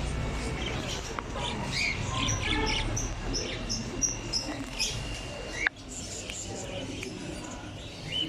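Many small cage birds chirping and squawking together, a rapid scatter of short high chirps; the level drops suddenly about five and a half seconds in and the chirping goes on more quietly.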